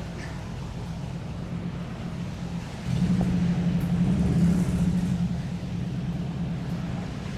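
Low hum of a motor vehicle engine running. It jumps louder about three seconds in, then slowly eases off.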